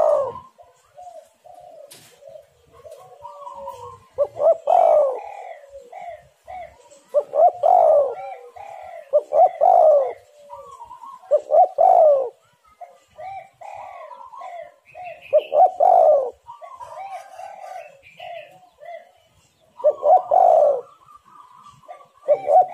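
Spotted doves cooing: loud coo phrases about every two to four seconds, with fainter overlapping coos and some higher short calls between them.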